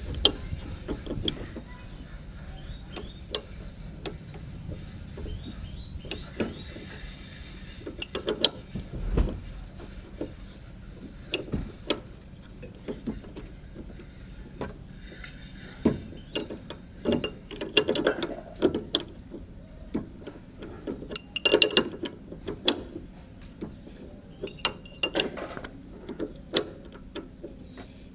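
Spanner work on a loose vehicle fitting: irregular metallic clicking and clinking of the wrench and metal parts, in clusters of short sharp clicks. The fitting had been left loose and is the cause of the vehicle's unexplained noise.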